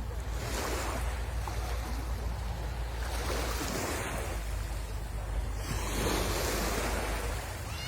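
Sea waves breaking and washing up the shore, swelling about every two to three seconds, over a low rumble of wind on the microphone.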